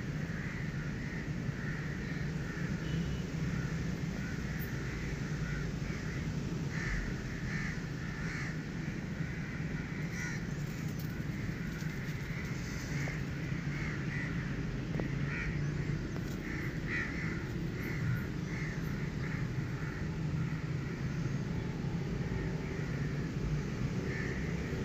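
Birds calling outdoors in many short, irregularly spaced calls, over a steady low background hum.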